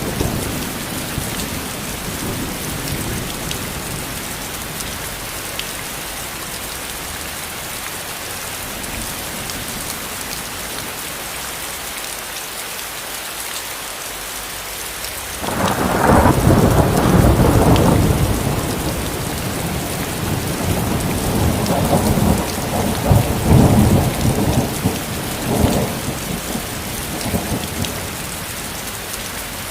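Steady rain falling, with a thunderclap breaking in about halfway through and rolling on as uneven rumbles for some ten seconds before it dies away, leaving the rain.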